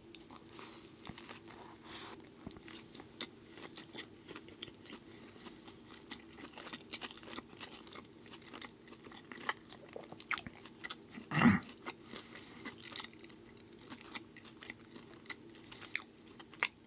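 Close-miked chewing of a burger, with many small wet mouth clicks and a louder sound about eleven seconds in. A faint steady low hum runs underneath.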